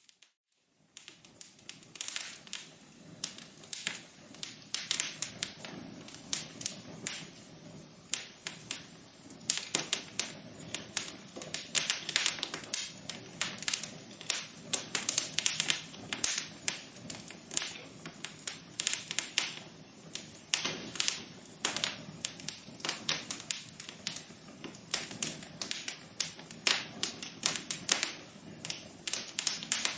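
Wood fire crackling in a fireplace: a dense, uneven run of sharp pops and snaps over a soft steady hiss. It cuts out briefly in the first second.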